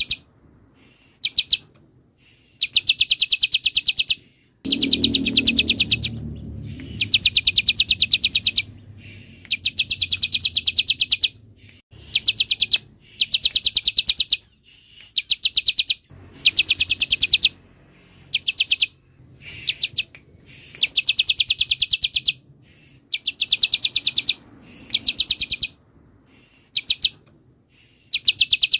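Bar-winged prinia (ciblek) singing: bursts of rapid, evenly repeated sharp high notes, each burst lasting one to two seconds, separated by short pauses.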